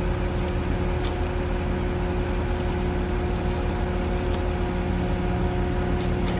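Heavy machinery's engine running steadily with a constant hum, with a faint click about a second in and another near the end.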